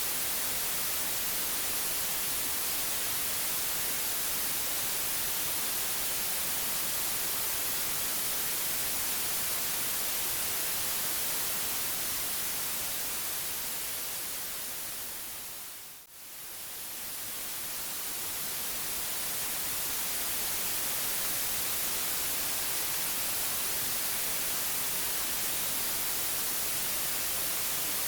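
Steady white noise, a smooth hiss strongest in the treble. About halfway through it fades down to a short dip and swells back up to full level.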